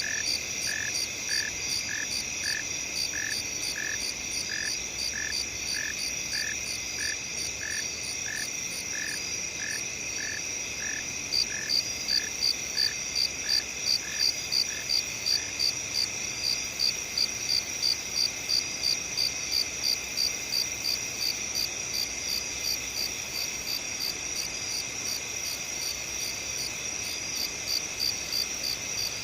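Night field chorus of crickets and other insects: a steady high trilling drone with evenly repeated chirps over it. A lower chirping fades out about halfway, and a louder, quicker chirp of about three a second comes in about a third of the way through.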